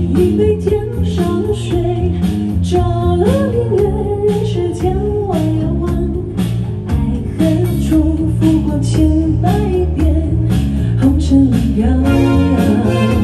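A female vocalist singing a pop ballad, backed by a live band with electric guitar, bass and drums.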